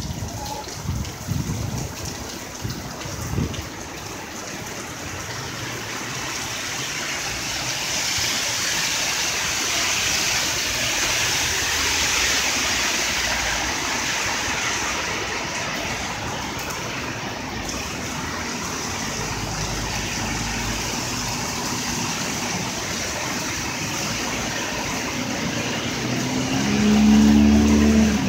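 Heavy rain pouring onto a city street, with car tyres hissing through the standing water. Near the end a vehicle engine's low drone swells to the loudest point.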